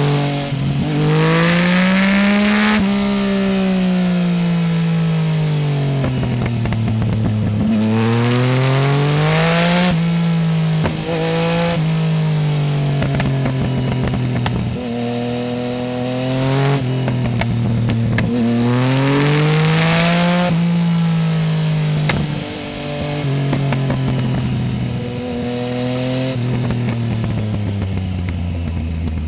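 Yamaha Tracer 900 GT's three-cylinder engine through a full Roads Italia exhaust with no dB killer, under way: the revs climb hard three times and fall away on the overrun in between. Near the end the engine slows steadily as it drops off the throttle.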